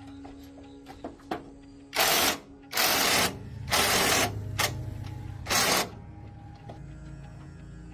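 Five short, loud bursts of hiss, each about half a second, over a low mechanical hum, with a few sharp clicks before them.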